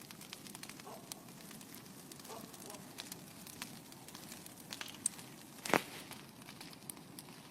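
Bonfire crackling steadily with scattered small pops, and one louder sharp pop a little after three-quarters of the way through.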